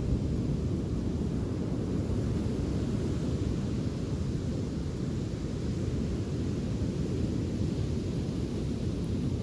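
Steady low rumble of wind and surf on a sandy beach, with no distinct crackles standing out.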